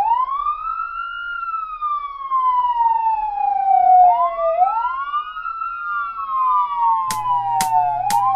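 Ambulance siren sound effect wailing: each cycle sweeps quickly up in pitch and then slowly back down, and a second wail overlaps it from about four seconds in. Near the end a music beat with sharp drum hits starts under it.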